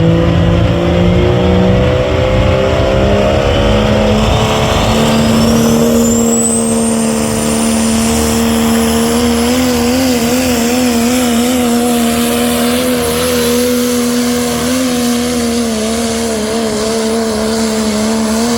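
Turbocharged diesel engine of a Pro Stock pulling tractor running at full throttle under load while pulling the sled. Its pitch climbs over the first few seconds as a high turbo whine rises and then holds steady, and from about nine seconds the engine note wavers rapidly up and down.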